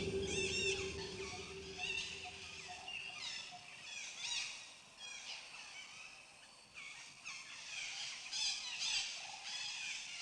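Several birds chirping and singing in short, quick phrases, a natural birdsong ambience. A low held tone fades out over the first two seconds.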